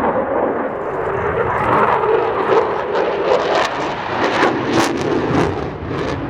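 RAF Typhoon FGR4 fast jet's twin Eurojet EJ200 engines running loud through a display pass, as a dense rumble with repeated sharp crackles through the middle and latter part.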